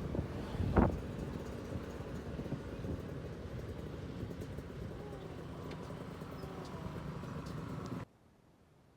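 Steady low rumble of wind and vehicle noise with one loud knock about a second in; the sound cuts out abruptly near the end.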